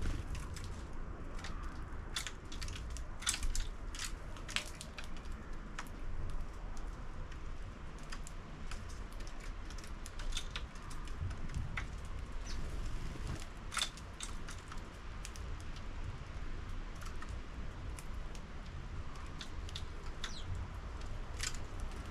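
Sparrows pecking seed inside a 3D-printed plastic bird feeder: irregular light clicks and taps, scattered unevenly, over a low background rumble.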